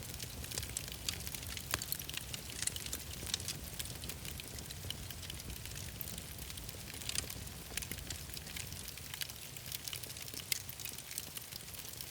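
Wood fire crackling: many irregular sharp crackles and pops over a low, steady rumble.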